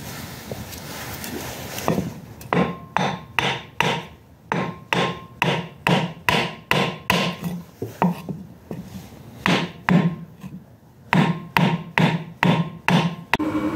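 A run of about thirty sharp hammer-like knocks on metal, about three a second, each with a short ring, broken by two brief pauses in the second half.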